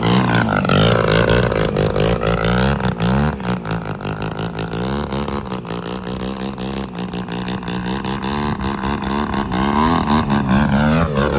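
Radio-controlled model Sukhoi jet flying, its engine whine rising and falling in pitch as it passes, with a sharp downward sweep near the start and again near the end.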